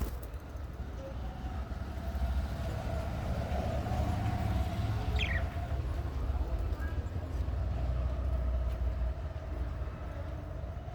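A steady low rumble that grows louder about two seconds in, with one short downward-sliding bird call near the middle.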